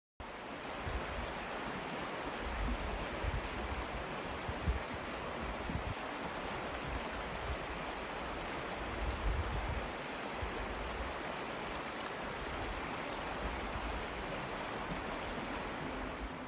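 Water rushing steadily in a stream, with uneven low rumbling underneath.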